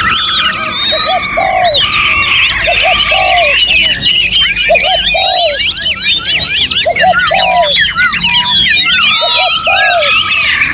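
Many songbirds singing at once in a dense, overlapping chorus of whistled phrases. Underneath, a low call of two or three notes repeats about every second and a half.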